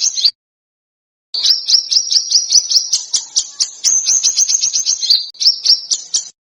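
A small songbird's rapid, harsh volley of sharp high notes, about six or seven a second in a dense run: the piercing 'tembakan' (shot) phrasing used as tutor song for competition birds. It starts abruptly after about a second of silence and cuts off just before the end.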